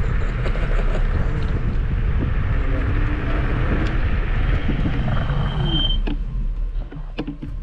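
Wind buffeting the microphone and rolling noise while riding an electric scooter. It dies down about six seconds in, with a short high squeak just before and a few sharp clicks after.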